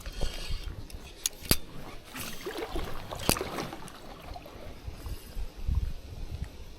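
Strong gusting wind buffeting the microphone, with a few sharp clicks in the first half.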